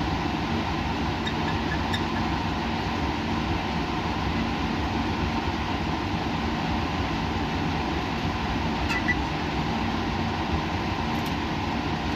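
Steady hum of laboratory machinery and ventilation running at a constant level, with a low steady tone and a fainter higher one. A few faint ticks sound about a second in, at two seconds, and around nine seconds.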